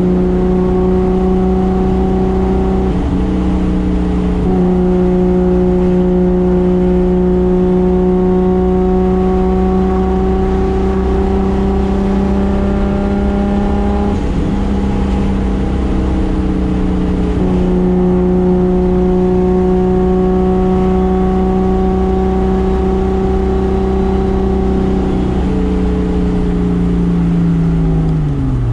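Toyota 2JZ single-turbo straight-six engine running hard at a steady, nearly constant speed, its pitch creeping slightly up, with a few brief breaks. Its pitch begins to fall near the end as the throttle comes off.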